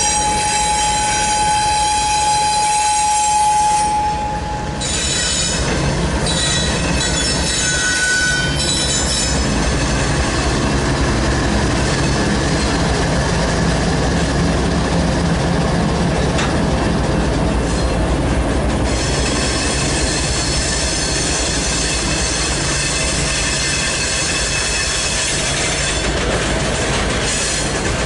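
Long freight train rolling past, steel wheels on the rails with flange squeal: a steady high squeal for the first few seconds and a brief higher one near eight seconds. Around the middle a diesel locomotive, the GE ES44AC mid-train helper unit, passes under power, its engine hum adding to the rumble of the cars.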